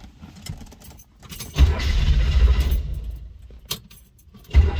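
Keys jangling and clicking in the ignition, then the car's engine comes in with a loud low rumble about a second and a half in. The rumble dies away, and the engine catches again near the end and keeps running.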